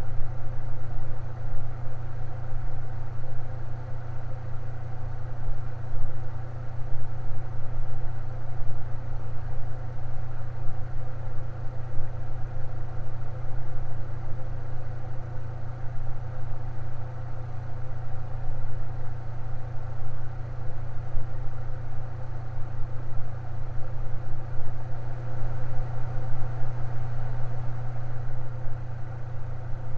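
Electric fan running steadily: a low, even hum with fainter steady tones above it.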